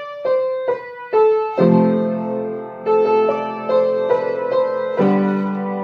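Piano playing a melody of short repeated notes over chords, with sustain pedal; fuller chords with a held bass come in about one and a half seconds in and again about five seconds in.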